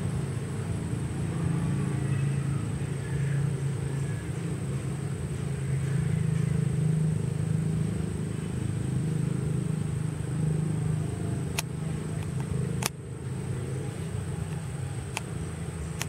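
Steady low motor rumble, with a few sharp clicks in the last few seconds.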